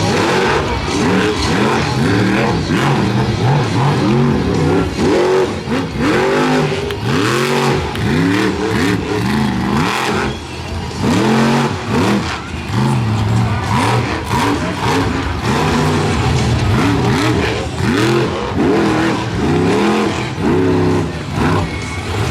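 Monster truck engine revving hard, its pitch climbing and dropping back over and over, about once or twice a second, as the driver works the throttle.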